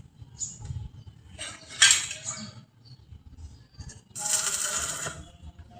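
Metal parts clinking and ringing as they are handled, with a harsh hissing burst about a second long past the middle.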